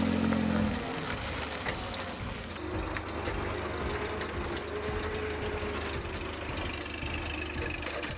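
An engine idling steadily. A louder low hum cuts off about a second in.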